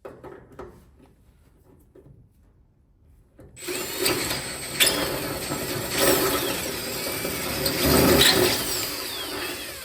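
Power drill boring upward into metal, drilling out the threads left by a broken bolt with a larger bit. A few faint handling clicks, then the drill starts about three and a half seconds in and runs steadily with a high motor whine and the bit grinding through the metal.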